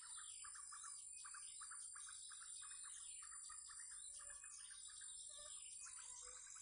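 Small birds chirping and twittering, faint: a fast trill repeated again and again, with higher twittering notes over it, against a thin, steady, high whine.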